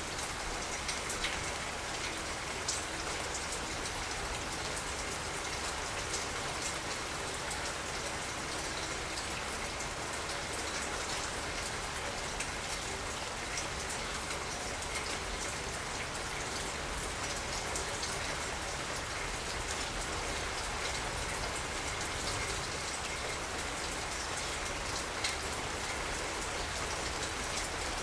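Steady rain falling, with a constant hiss of rainfall and scattered sharper drop ticks on nearby surfaces.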